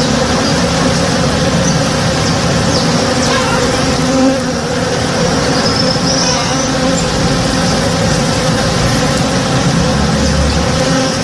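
A swarm of honey bees buzzing in a steady, dense drone as they forage on a tree in bloom.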